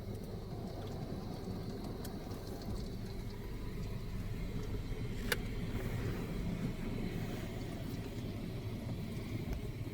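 Steady low mechanical rumble heard from inside a car sitting in a touchless car wash bay, with one sharp click about five seconds in.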